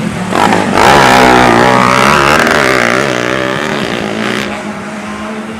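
Racing underbone motorcycle engines revving hard as bikes pass, their pitch rising and falling with the throttle. They are loudest about a second in and fade away over the last couple of seconds.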